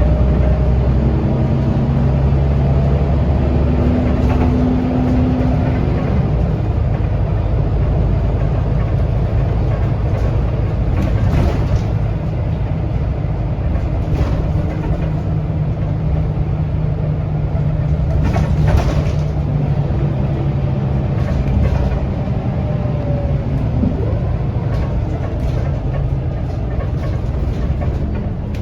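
Scania L94UB bus engine and ZF automatic gearbox running under way, heard on board: a steady low drone whose tones shift in pitch as the bus drives. There are a few short rattles from the bus along the way.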